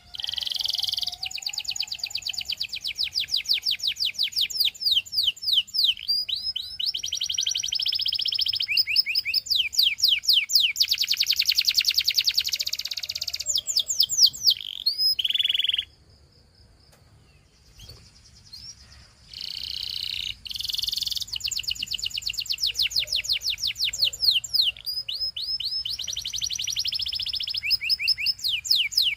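Canary singing a long song of rapid trills and repeated down-sweeping notes, with a pause of about two seconds midway before it starts again.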